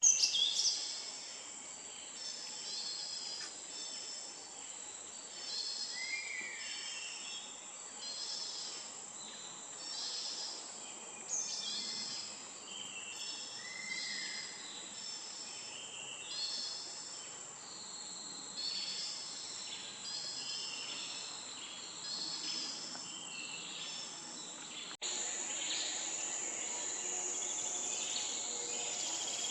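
Repeated short bird calls and chirps, with a few downward-sliding whistles, over a steady high-pitched insect drone. About 25 s in the sound cuts and the insect drone becomes louder.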